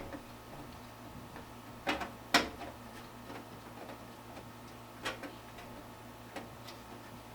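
Scattered sharp clicks and light knocks of computer parts and cables being handled inside a PC case: two loudest about two seconds in, fainter ones around five and six and a half seconds.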